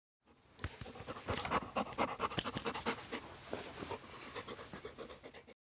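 A dog panting, a rapid run of short breaths that starts about half a second in and stops just before the end.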